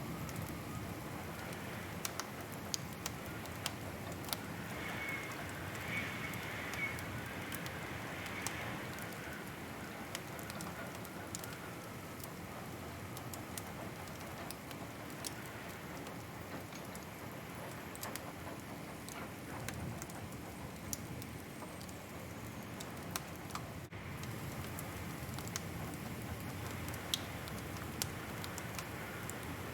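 Wood fire crackling: a steady soft hiss with scattered sharp pops and snaps, a few every couple of seconds.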